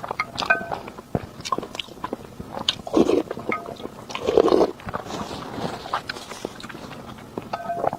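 Close-up eating sounds: a person biting and chewing, with many small clicks and two louder, longer noisy sounds about three and four and a half seconds in.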